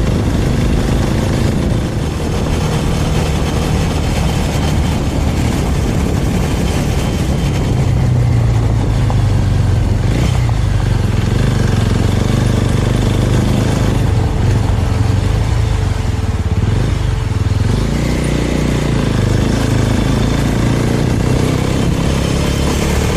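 Small Suzuki motorcycle's engine running while being ridden, its note rising and falling a few times with the throttle.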